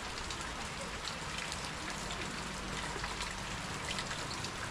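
Steady rain falling, with many small drop impacts ticking through an even hiss.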